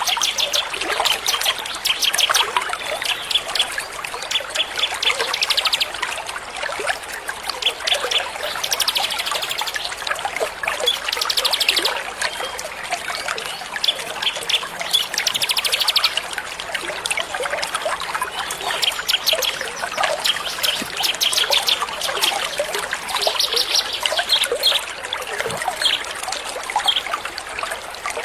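Many small songbirds chirping and giving rapid trills in quick bursts, over a steady trickle of water; a small-bird training-song recording used as a tutor for songbirds.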